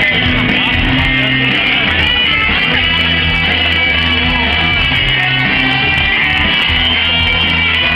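Live pop-rock band playing, with electric bass and guitar, recorded from the audience at a loud, steady level with a boomy low end.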